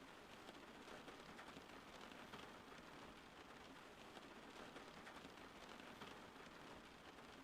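Faint, steady rain falling, an even patter of drops with no breaks.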